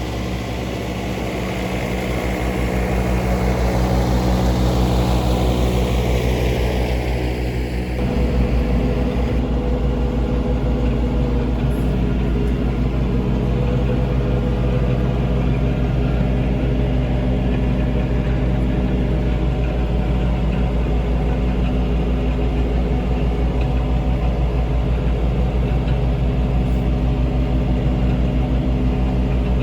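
John Deere 3039R compact diesel tractor running steadily while mowing tall wet grass with its 72-inch mid-mount deck. A high whine falls steadily in pitch over the first several seconds, then the sound changes abruptly to a steady, even run.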